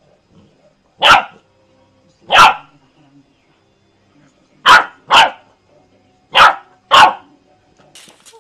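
Puppy barking in six short, sharp yaps: one about a second in, another a second later, then two quick pairs.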